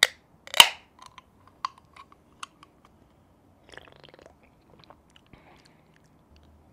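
A person handling and sipping from a canned soju cocktail: a sharp crack with a short hiss about half a second in, then scattered small clicks, then swallowing and mouth sounds about four seconds in.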